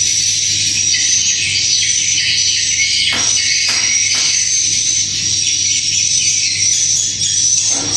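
Swiftlets' dense, high twittering calls filling the swiftlet house, over a steady low hum. A few short low knocks come about three seconds in and near the end.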